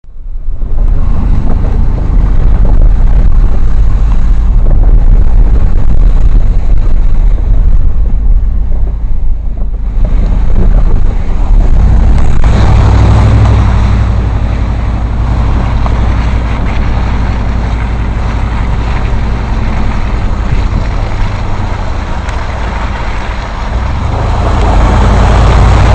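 Vehicle engine running while driving through mud and floodwater, with a heavy low rumble and wind buffeting the microphone; the sound grows louder and fuller about twelve seconds in.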